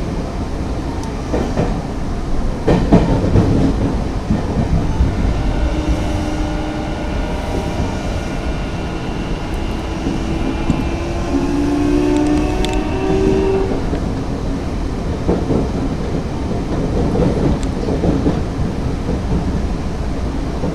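Nankai 8000-series electric train running along the track, wheels clattering over rail joints. Its traction motors whine in several faint tones that rise gently in pitch through the middle of the stretch.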